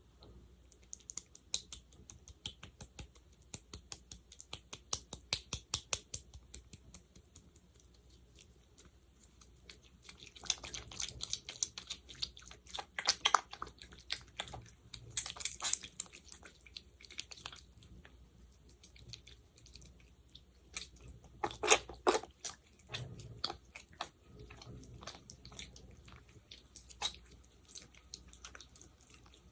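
Sticky, wet clicking and crackling of fingers working thick gel close to the microphone: a run of quick sticky taps at first, then denser crackling with a few louder pops.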